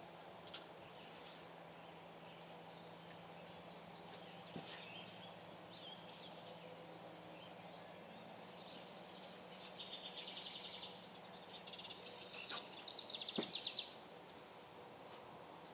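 Faint outdoor ambience with birds chirping, including two fast trilling songs about ten and thirteen seconds in, and a few faint clicks.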